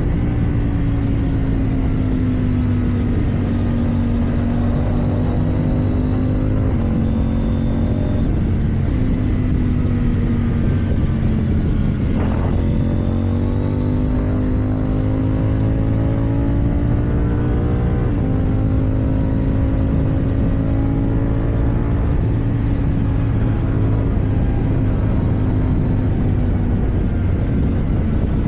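KTM Duke 790 parallel-twin motorcycle engine with an Akrapovič exhaust, running at steady cruising revs under way. The engine note rises and falls gently and steps in pitch a few times as the gears change.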